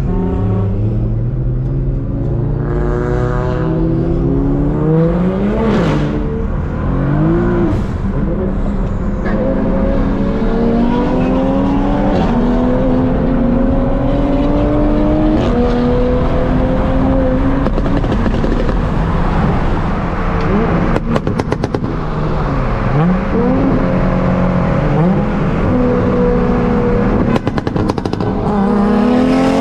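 Car with full bolt-on modifications accelerating hard in pulls through the gears: the engine pitch climbs, then drops sharply at each upshift, several times. A few short crackles come from the exhaust on the shifts.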